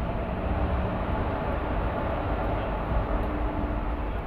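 Passenger train coaches rolling slowly out of a station: a steady low rumble of wheels on rail, heard from the coach's open door.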